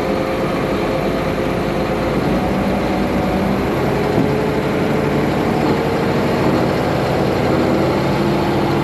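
Diesel engine of a John Deere 8RX tractor running steadily. Its note shifts about two seconds in and again near the end as the revs change.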